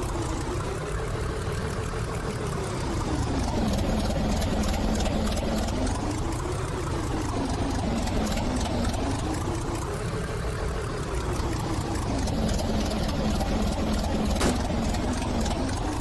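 Train running noise: a steady low rumble under a tone that rises and falls slowly, about every four seconds, with a single click near the end.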